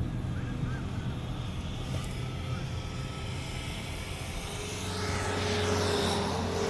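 Car driving, with a steady low rumble of engine and road noise. About four and a half seconds in, a steady drone joins and grows louder.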